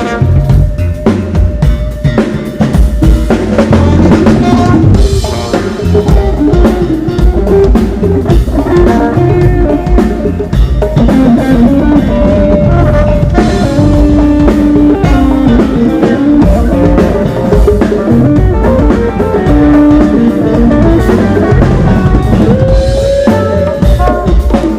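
Live band playing samba rock at a soundcheck: a drum kit keeps a steady beat with kick and rimshots under guitar and held melodic notes.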